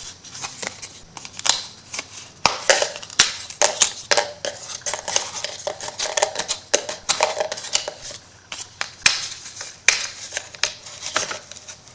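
Paper and plastic sheets being handled and shuffled, rustling and crinkling with many irregular sharp crackles and clicks.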